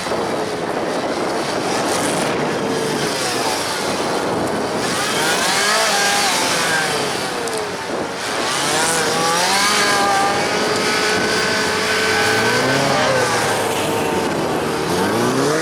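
Honda CB-1 motorcycle's 400 cc inline-four engine revving up and dropping back again and again, its pitch rising and falling every second or two, with wind rushing over the microphone.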